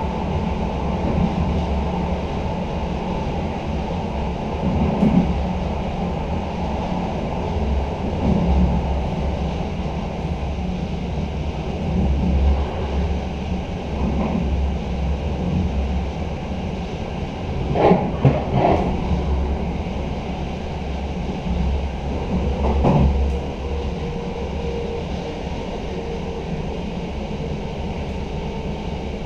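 Running noise heard inside a passenger carriage of an electric intercity train at speed: a steady rumble of the wheels on the rails, broken every few seconds by louder clacks over the track, the sharpest a quick pair about two-thirds of the way through. A thin steady whine comes in near the end.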